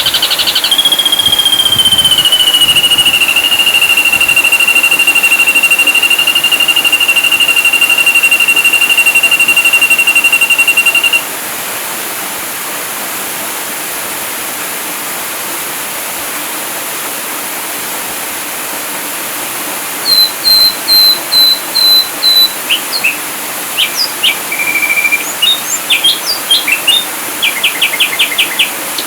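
Ashy drongo song from a bird-training recording: one long steady high whistle held for about ten seconds. After a pause come a quick run of short repeated notes, varied chirps and a fast trill near the end, over a steady hiss.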